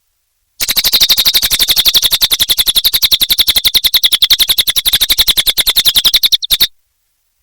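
Cililin songbird giving a fast, even chattering trill of about a dozen sharp notes a second. It starts just after half a second in and stops abruptly near the end.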